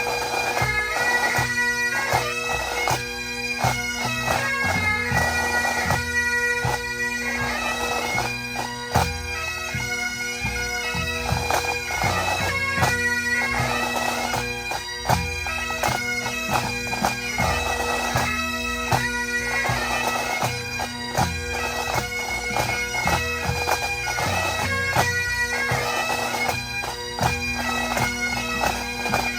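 A pipe band playing: Great Highland bagpipes sounding a melody over their steady drones, with drums beating along in a regular rhythm.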